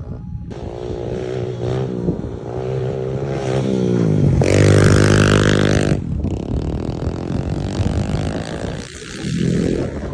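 Off-road vehicle engine revving up and down while riding, the pitch climbing to its loudest peak about halfway through with a burst of rushing noise, then easing off; it dips briefly near the end and picks up again.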